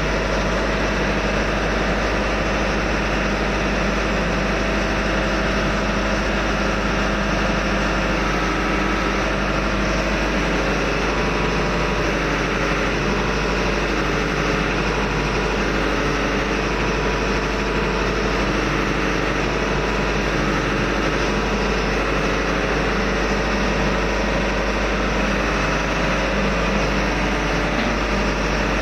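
Diesel engine running steadily in a ship's engine room, a constant loud drone that does not change.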